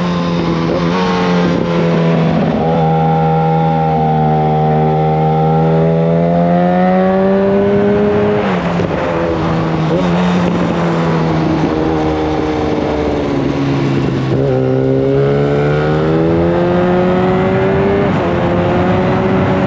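Yamaha FZ1 Fazer's inline-four engine through a Mivv GP exhaust with the dB killer removed, running loud under way with the revs rising and falling with the throttle. The revs drop sharply about a second in, again near the middle, and once more a few seconds later before climbing again.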